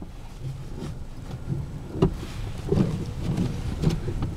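Four-wheel-drive pickup truck driving through snow, heard from inside the cab: a steady low rumble of engine and tyres, with one sharp knock about two seconds in.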